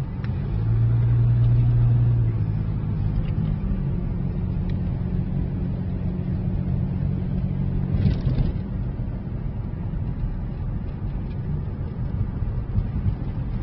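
Car engine and road noise as a steady low drone. It swells for about two seconds near the start, with a strong low engine note, and has a short noisy burst about eight seconds in.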